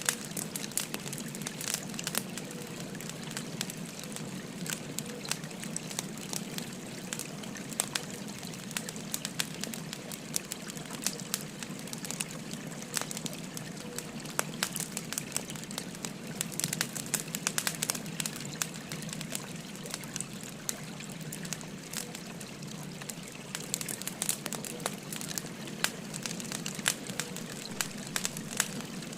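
Burning firewood crackling, with frequent sharp pops and snaps, over the steady rush of a gently flowing river.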